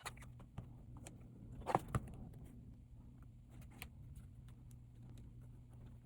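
Scattered small clicks and taps of tools and hands working on a smartphone, loudest in two sharp knocks a little under two seconds in, over a steady low hum.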